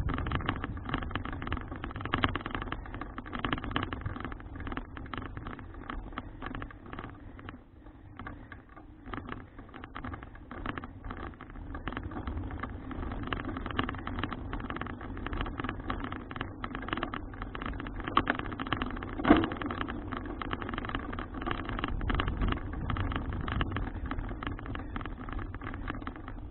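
Steady road and riding noise with many small rattles and clicks, as heard from a camera mounted on a moving bicycle. There is one sharp louder knock about 19 seconds in.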